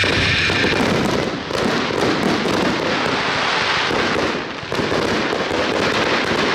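Dense barrage of 1.4G consumer fireworks: many bursts and crackling reports overlapping with no gaps, easing briefly twice.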